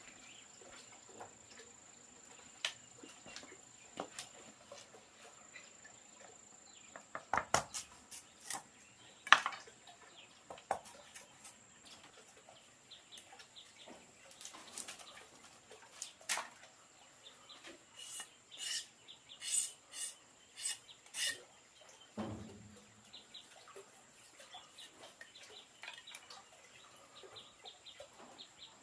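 Scattered light clicks and knocks of things being handled, over a steady thin high insect drone, with a quick run of short high calls about two-thirds of the way in and a lower call just after.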